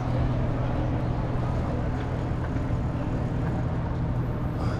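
Steady low rumble of wind and rolling noise on the microphone while riding a bicycle.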